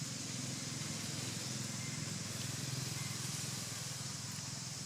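Steady outdoor background noise: a low hum under a high, even hiss, with no distinct events.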